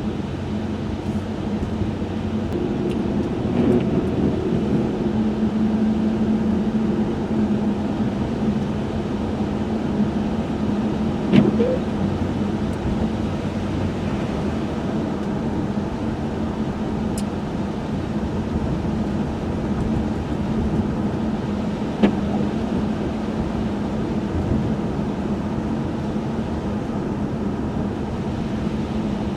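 Cabin sound of a 1995 Chevrolet Monte Carlo driving on a snowy road: a steady low engine hum under tyre and road noise. Two short sharp knocks come about eleven seconds in and about twenty-two seconds in.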